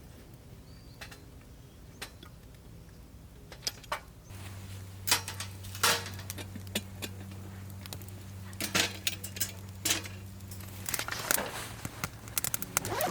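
Scattered metal clinks and clatters, more frequent after about four seconds, over a steady low hum that starts about four seconds in and stops near eleven seconds.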